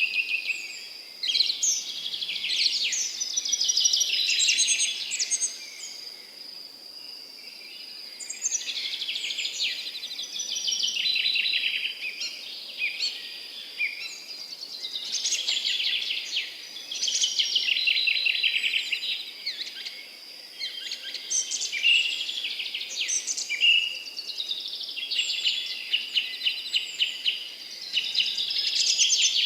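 Songbirds singing in short phrases of rapid notes, one phrase every few seconds, over a steady high-pitched insect trill.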